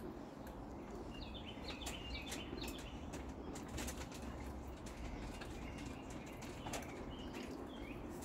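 Birds chirping in short, scattered phrases, with a few light taps in between.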